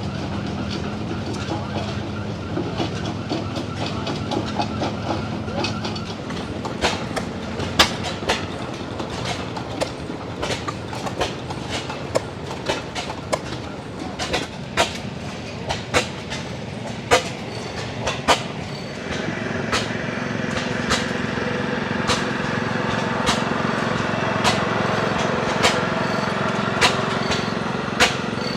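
Antique machinery running: a steady mechanical drone with a low hum, broken by irregular sharp knocks that come more often from about six seconds in. About two-thirds of the way through, a higher whirring sound joins and the running gets louder.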